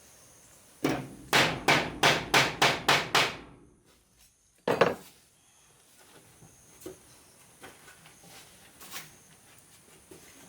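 A hammer striking wood: a quick run of about eight blows, roughly three a second, then one more hard knock a little over a second later, followed by faint light knocks.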